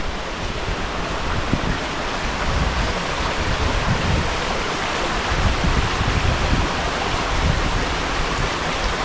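Steady rushing water of a waterfall, with an uneven low rumble beneath it.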